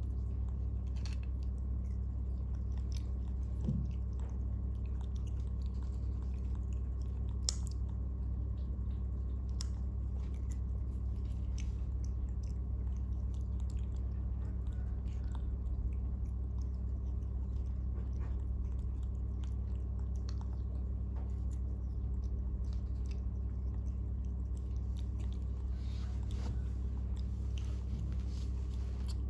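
Baby monkeys chewing and smacking on rice, small clicks scattered through, over a steady low hum.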